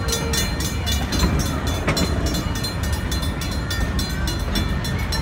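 Amusement-park railroad train running along its track: a steady low rumble with an even rhythmic beat of about four a second.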